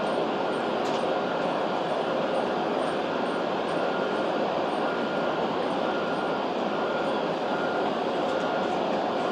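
W7 Series Shinkansen train running in slowly on its approach, a steady running noise with no sudden events. A faint short beep repeats about one and a half times a second throughout.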